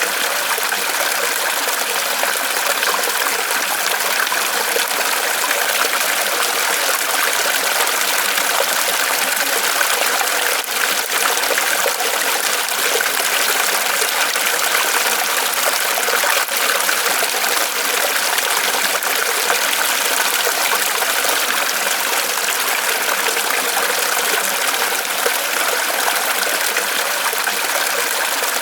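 Small waterfall of water falling and trickling from a tree trunk, a steady unbroken splashing.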